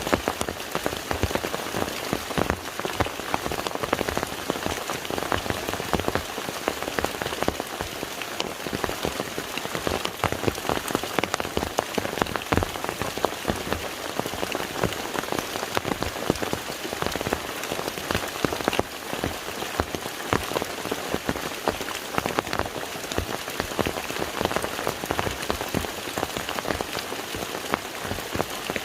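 Steady rain falling on a lake's surface: a dense, even patter of many individual drops.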